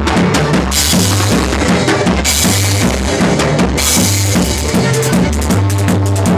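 Live band music: a drum kit with kick, snare and crashing cymbals playing a steady groove over a stepping bass line, with no singing.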